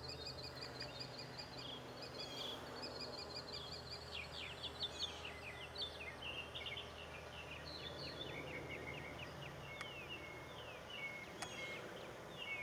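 Several birds chirping and singing: quick runs of short repeated notes and fast falling whistles, over steady outdoor background noise.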